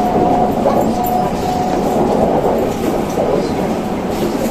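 Running noise inside a 285-series sleeper electric train car under way: a steady rumble of wheels on rails. A thin steady whine fades out under two seconds in.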